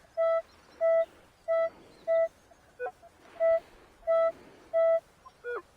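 Metal detector giving a run of short, steady mid-pitched beeps, about one every two-thirds of a second, as the coil is swept back and forth over a buried target. Twice a shorter, lower blip that bends in pitch breaks in: the detector's other tone.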